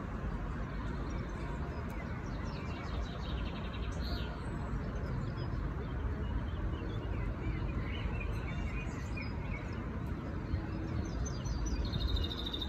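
Small birds chirping in quick runs of short high notes, about two seconds in and again near the end, over a steady low outdoor rumble.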